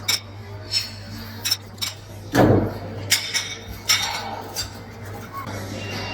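Scattered clinks and knocks of glasses and dishes at a fresh-orange-juice counter, about eight in all, the loudest about two and a half seconds in, over a steady low hum.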